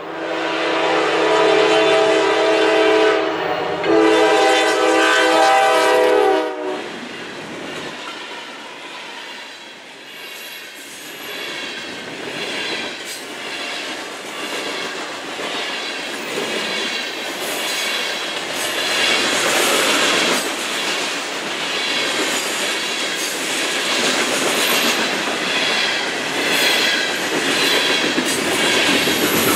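Norfolk Southern diesel freight locomotive horn sounding two long blasts for a road crossing, the second cutting off about six and a half seconds in. Then the train rolls past, a long string of covered hopper cars with wheels clacking rhythmically over the rails.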